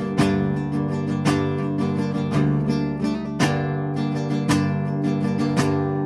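Acoustic guitar strumming chords, with a strong strum about once a second over ringing chords.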